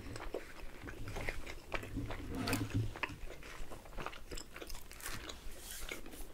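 Two people chewing and biting into pizza slices close to the microphone: many small, irregular mouth clicks and soft crunches.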